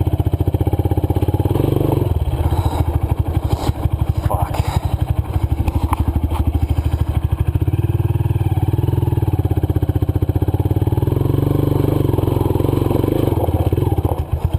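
Honda CRF230F dirt bike's single-cylinder four-stroke engine running hard under load, its revs dropping about two seconds in and rising again later. It is the sound of the rider working the throttle while struggling for traction in loose, dry dirt.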